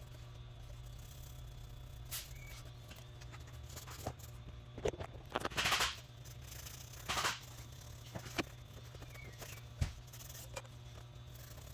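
Scattered clicks, taps and short scraping or rustling noises of hand work with tools and parts, over a steady low hum. The loudest scrapes come about halfway through and again a little later.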